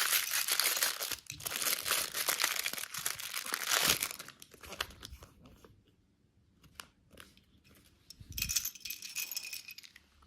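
Plastic candy wrapper being torn open and crinkled for about four seconds. Then come a few scattered small clicks, and a second short burst of crinkling with a soft thump near the end.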